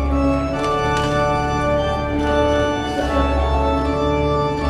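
Organ music: slow, sustained chords over a held bass note, the chord changing every second or two.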